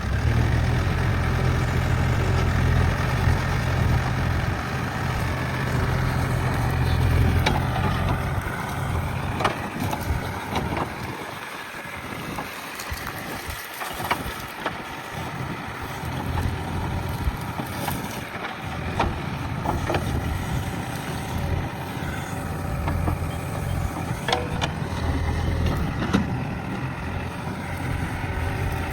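JCB backhoe loader's diesel engine running under load, its pitch rising and falling as it works, easing off for a few seconds about halfway. A couple of sharp clanks stand out over the engine.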